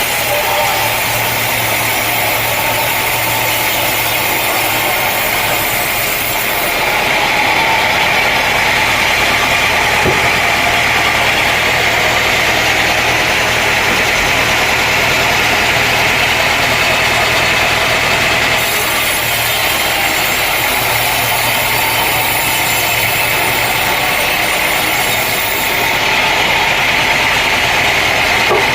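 Sawmill machinery running steadily: a constant engine-like hum with a band of hiss on top. The high hiss shifts abruptly a few times.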